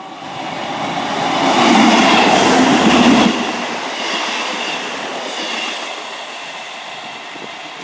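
A Class 158 diesel multiple unit passing through the station without stopping: the sound builds as it approaches and is loudest about two seconds in. It drops sharply just after three seconds as the unit goes by, then fades away.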